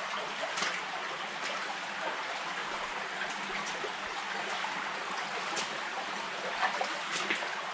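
Shallow water trickling and running steadily through a stone railroad culvert, heard from inside the tunnel, with a few faint taps now and then.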